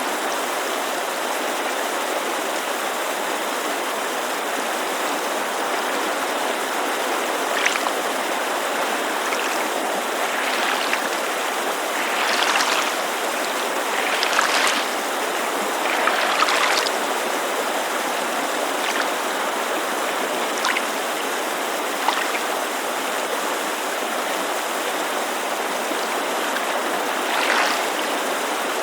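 Steady rush of a mountain creek, with small waves lapping against a lake shore in a few soft splashes, clustered in the middle and once more near the end.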